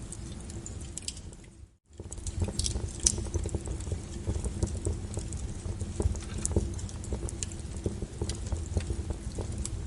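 Wood fire crackling, with irregular pops and snaps over a low rumble. The sound fades out and drops away for a moment a little under two seconds in, then comes back.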